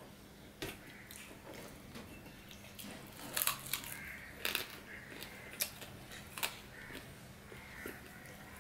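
Close-up eating sounds: chewing and sharp mouth clicks and crunches, the loudest between about three and six and a half seconds in, as a mouthful of polao and fish is eaten by hand, with fingers gathering rice on a stainless steel plate.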